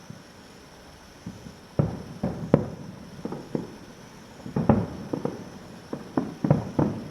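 Fireworks shells bursting at a distance: after a quiet start, about a dozen sharp bangs in irregular quick runs, each with a short rumbling tail.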